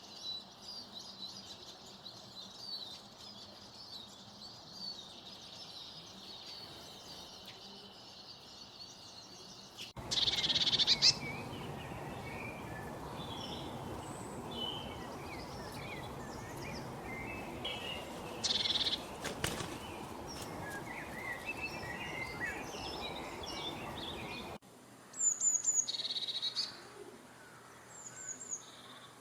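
A chorus of songbirds chirping and calling, with many short overlapping notes. About ten seconds in it switches abruptly to a noisier background with louder calls. Near the end it changes again to a quieter stretch of repeated short high whistles.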